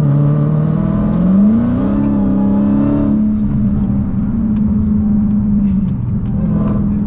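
Dodge Hellcat's supercharged 6.2-litre V8 heard from inside the cabin while driving, the engine pitch rising about a second in as it accelerates, then settling to a steady cruise.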